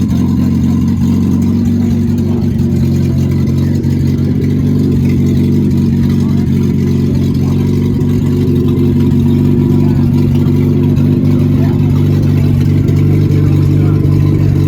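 Triumph Spitfire race car's four-cylinder engine running steadily at idle.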